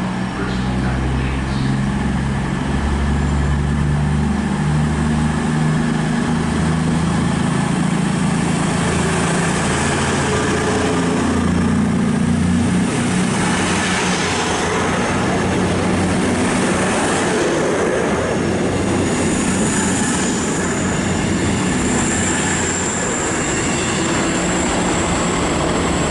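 CrossCountry Class 221 Voyager diesel-electric multiple unit pulling out of the station, its underfloor diesel engines throbbing under power for the first ten seconds or so, then giving way to the rush of wheels and rail as the carriages pass. A thin high whine appears in the last few seconds.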